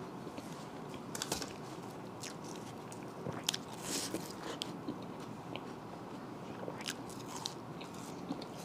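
Close-up eating sounds: a person biting and chewing food, with short clicks scattered irregularly, the strongest about three and a half seconds in.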